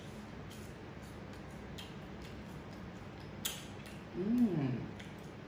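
Chewing a bite of crispy fried Dover sole: scattered small clicks and crunches from the mouth, then about four seconds in a short hummed 'mmm' that rises and then falls in pitch.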